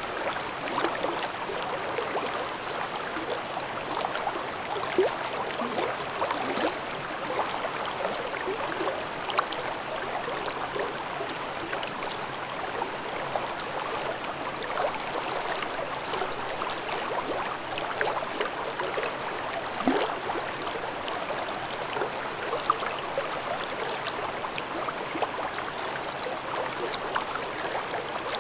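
Mountain stream babbling over rocks: a steady wash of flowing water with bubbling and gurgling blips throughout.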